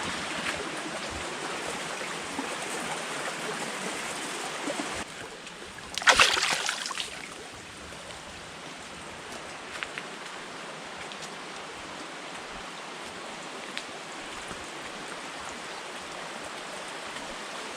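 Steady rush of flowing water from a mountain stream. About six seconds in there is a brief louder surge of noise, then the water sounds quieter.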